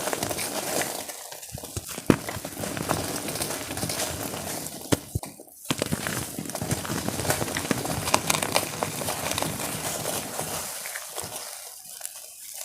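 Dipped, soaked powder blocks of gym chalk being crushed: a dense crackling crunch of many small breaks, with a sharp snap about two seconds in and a short pause about halfway through.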